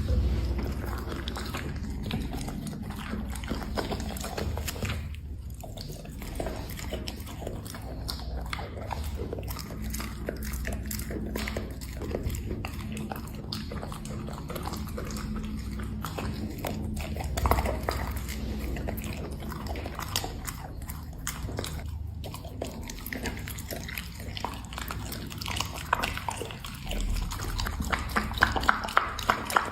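A black Labrador chewing and biting dried seafood snacks: a dense, irregular run of bites and mouth clicks, sharper and louder near the end, over a steady low hum.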